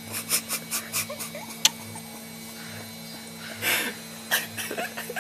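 A small child's mouth sounds while tasting sour lemon: a quick run of short smacks and sputters, a sharp click about a second and a half in, then more sputters and brief whimpering squeaks near the end.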